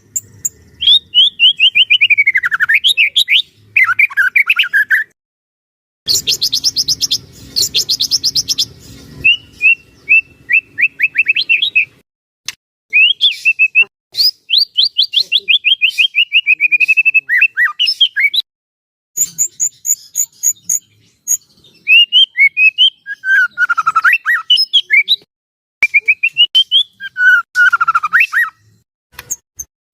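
White-rumped shama (murai batu) singing loudly: phrases of rapid whistled notes sweeping down and up in pitch, separated by short pauses, with a harsh rattling stretch about six to nine seconds in.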